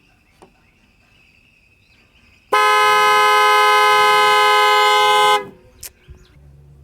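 2008 Dodge Nitro's horn sounding one steady blast for about three seconds, then cutting off abruptly, while the negative battery cable is being reconnected; the horn is set off by the vehicle's alarm system, which is blocking the engine from starting.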